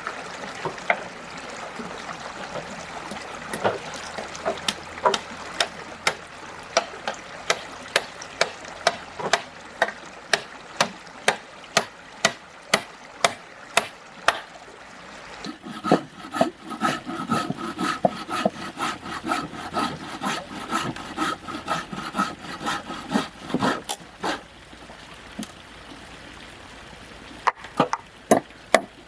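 A blade chopping wood in quick, even strokes, about two to three a second. Midway the strikes come thicker, with a rasping tone beneath them, before they pause and start again near the end.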